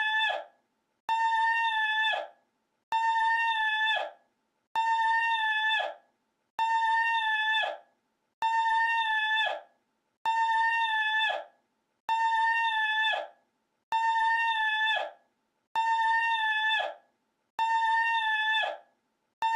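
A person's high, held falsetto cry, looped: each cry holds one pitch for about a second and a half, then drops off at the end. It repeats identically about every 1.8 seconds, with short silent gaps between.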